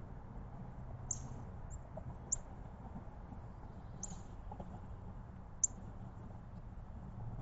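Backyard songbirds giving short, high chirps, about five of them at irregular intervals, over a low steady rumble.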